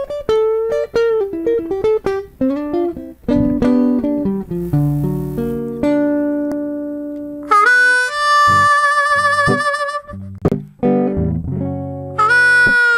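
Live blues duet: a guitar plays a slow introduction of picked single notes and chords. About halfway through, a blues harmonica comes in over it with long held, wavering notes, drops out for a moment, and returns near the end.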